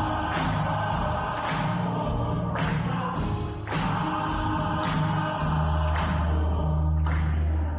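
A choir singing sustained chords over strong low notes, the phrases renewed every second or so.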